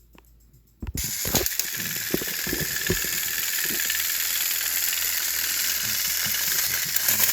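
Battery-powered toy train engine: a loud, steady hiss starts suddenly about a second in, with clicking and rattling over it.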